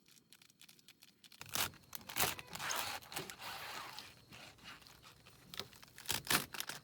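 Irregular rustling and crinkling with sharp clicks, starting after a quiet second and a half and coming again in a short cluster near the end.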